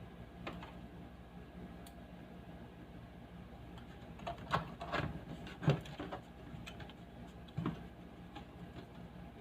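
Speaker giving off a steady low electrical hum, with a few clicks and knocks of handling about four to six seconds in and once more near eight seconds.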